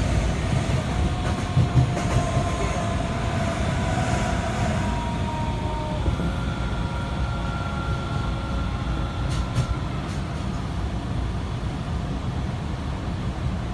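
Kita-Osaka Kyuko 8000-series subway train running, heard from inside the car: a steady low running rumble with a faint whine from its Toshiba IGBT VVVF inverter and traction motors. The whine shifts to a single higher steady tone about six seconds in and fades a few seconds later.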